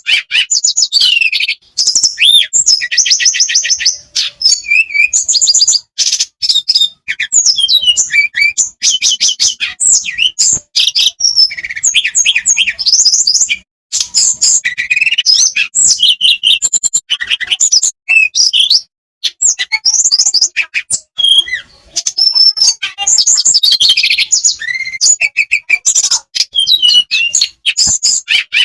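Tledekan (Cyornis blue flycatcher) singing a long, near-continuous rolling song of fast high trills and warbled phrases, with only brief pauses, played as a lure recording to get caged birds singing.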